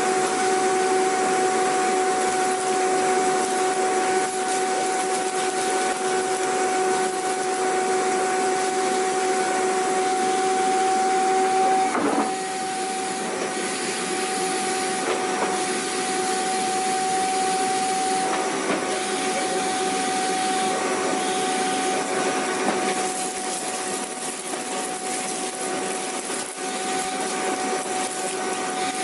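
Vacuum cleaner running steadily: a constant motor whine over the hiss of rushing air. About twelve seconds in there is a brief knock, and the sound drops slightly in level.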